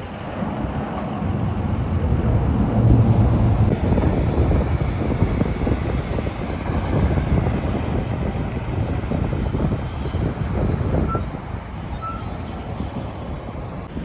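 Semi truck's diesel engine running as the truck goes by, a deep engine rumble loudest about three seconds in, over steady road traffic noise.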